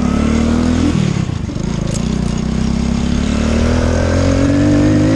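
125 cc Boom motorcycle engine pulling under throttle. The revs climb, drop sharply about a second in as a gear is changed, then climb steadily in the next gear.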